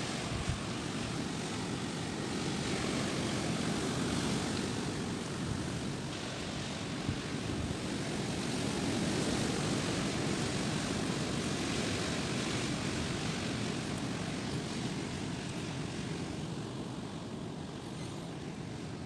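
Strong gusty wind rushing and buffeting the microphone as a low rumbling roar that swells and eases, louder for a few seconds near the start and again in the middle.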